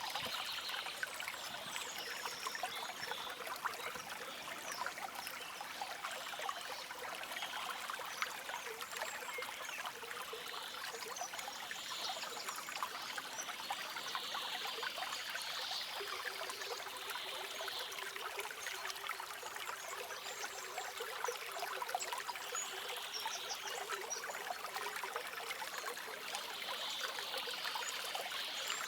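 Small stream trickling steadily, a continuous even rush of running water.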